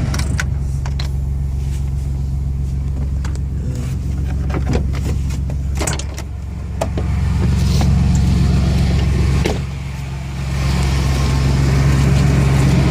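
A 2002 Chevy S10 pickup running at idle with its air-conditioning blower on, a steady low hum. The level dips and comes back up twice, with scattered clicks and knocks over it.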